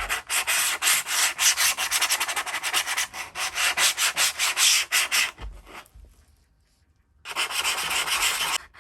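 Sandpaper rubbed by hand over a snowboard in quick back-and-forth strokes, roughing up the surface and edges to prepare it for gluing. The strokes stop about five seconds in and start again for a short run near the end.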